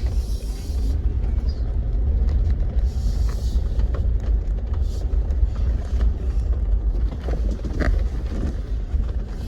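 Jeep driving slowly over a rough dirt off-road trail: steady low engine and drivetrain noise, with scattered short knocks and rattles from the bumps.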